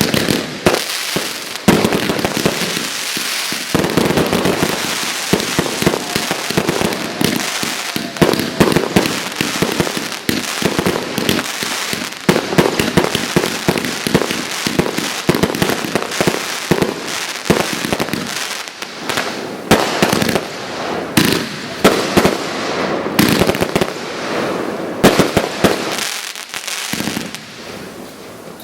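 Fireworks display going off: a dense, continuous barrage of launch thumps, bangs and crackling bursts, many per second, easing a little near the end.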